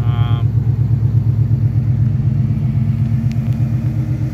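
Ford Coyote 5.0 DOHC V8 in a Fox-body Mustang idling steadily with an even, rhythmic exhaust pulse, running through a 3-inch exhaust.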